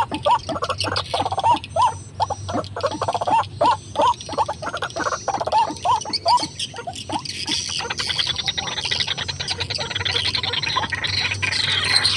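White-breasted waterhen calling: a long run of short, upward-hooked notes, about two to three a second. In the last few seconds this gives way to a denser, higher chattering.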